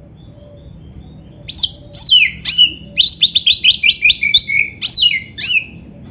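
Oriental magpie-robin (kacer) singing: a loud, fast run of varied whistled notes, many sliding downward, starting about a second and a half in and stopping shortly before the end.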